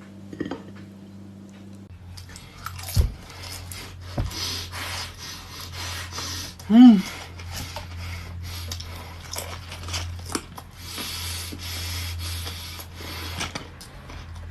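Close-up eating sounds of a custard tart: crackly crunching, chewing and mouth noises from a flaky pastry shell. About seven seconds in there is a short hummed vocal sound that rises and falls in pitch, the loudest moment.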